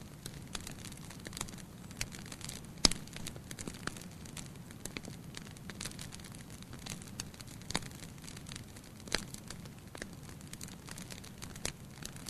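Fire burning in a fireplace with a soft steady hiss, crackling with irregular sharp pops; the loudest pop comes about three seconds in.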